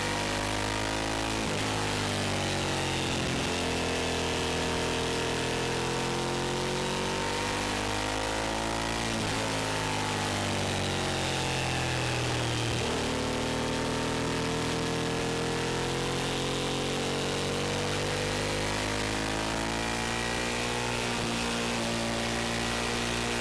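Motorcycle engine heard from on board while riding, its pitch rising and falling with the throttle: it drops sharply and climbs again about a second and a half in and again about halfway through. A steady rush of wind noise runs under it.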